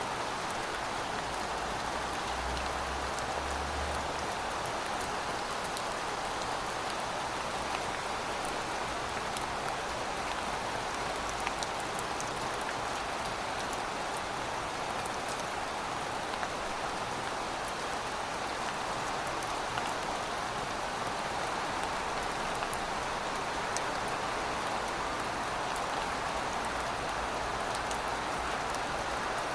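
Steady rain falling, a constant hiss with scattered sharp drop hits.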